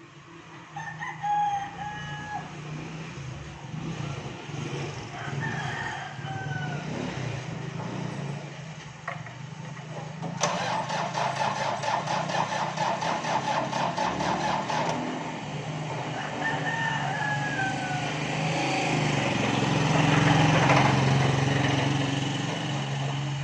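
Roosters crowing several times over a steady low hum. A rapid, even rattle runs for about four seconds from about ten seconds in.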